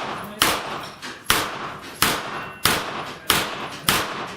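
A string of about six gunshots fired in steady succession, roughly one every two-thirds of a second, each followed by a short echoing tail, as a shooter works through a row of steel plate targets.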